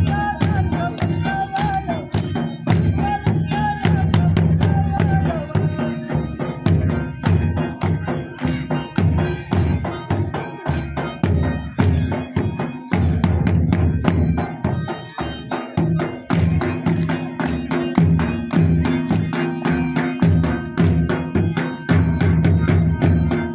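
Traditional folk dance music for an attan: drums beaten in a quick, even rhythm over a steady low drone, with a wavering high melody on top for the first few seconds.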